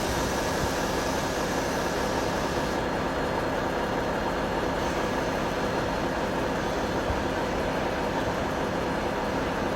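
Heavy truck engine running steadily with road noise, an even drone.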